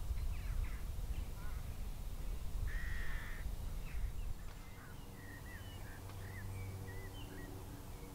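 Outdoor birdsong over a low rumble: a short harsh call about three seconds in, then scattered small chirps in the second half, with a faint steady hum coming in partway through.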